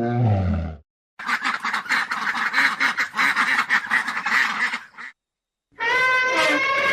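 An animal's rapid, harsh chattering calls for about four seconds, following the end of a deep roar. About a second before the end, a different, steady pitched call begins.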